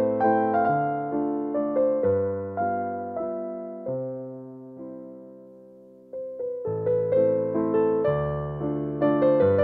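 Background piano music: gentle, slow notes and chords, with a held note dying away near the middle before the playing resumes.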